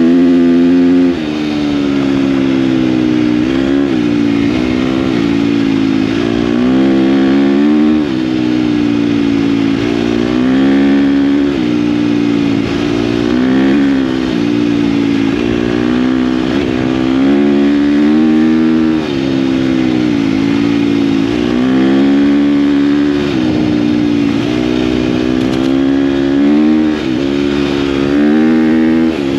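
KTM dirt bike engine under way, its revs climbing and dropping back over and over as the throttle is worked.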